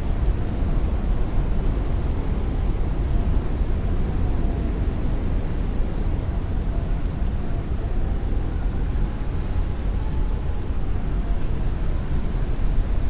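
Heavy rain beating on a window pane while strong wind blows, a steady, dense wash with a deep constant rumble underneath and no thunder.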